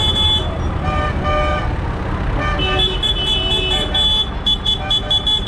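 Vehicle horns tooting over the steady low rumble of tractor engines: a few longer toots, then a run of short, quick beeps near the end.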